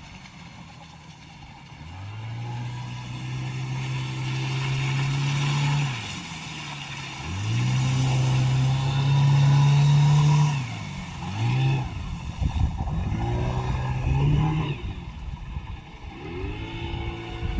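Selva Naxos 15 outboard motor being throttled up and eased off several times: its pitch rises and holds a few seconds, drops, and rises again, loudest about halfway through. It is fitted with a replacement propeller that the owner says stopped it slipping once on plane.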